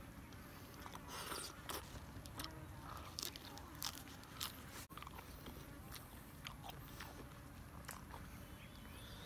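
A person biting and chewing grilled squid and a crisp lettuce leaf close to the microphone, with irregular crunches and wet chewing clicks.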